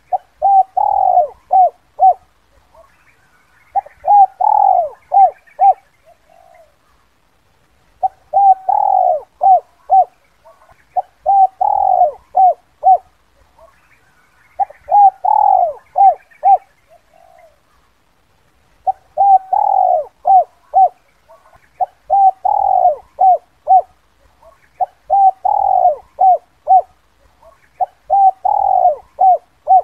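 Spotted dove (Spilopelia chinensis) cooing the 'kuk 2' call. Each phrase is a run of short coos around one longer, louder note, and the phrase repeats about every three seconds. Faint chirping of other small birds sits higher up.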